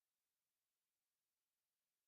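Near silence: a silent soundtrack with only a faint digital noise floor.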